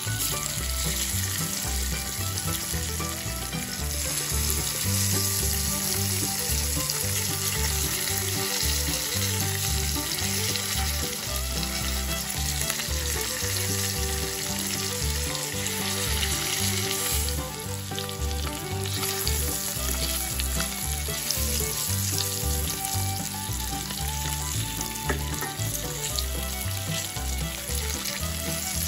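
Halved boiled eggs frying in hot oil with garlic, chillies and curry leaves in a stainless steel pan: a steady sizzle.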